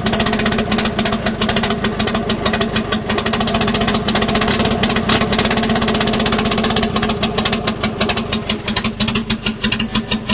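Datsun 210's four-cylinder engine running at idle just after a cold start, with a fast, steady pulse of firing strokes. The beat grows uneven near the end. It is running on 4 to 5 year old gas through a carburettor that flooded on the start.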